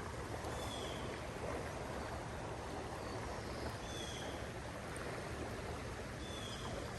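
Steady rushing of a trout creek's flowing water, mixed with falling rain.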